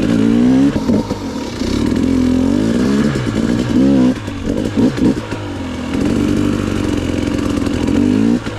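KTM 250 XC-W TPI two-stroke dirt bike engine being ridden, its pitch rising and falling again and again as the throttle is worked on and off.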